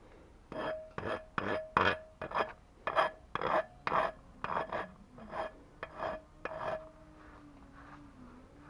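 Hand filing or rasping strokes on a workpiece, about fourteen back-and-forth strokes at roughly two a second, each with a short ringing note. The strokes stop about two seconds before the end.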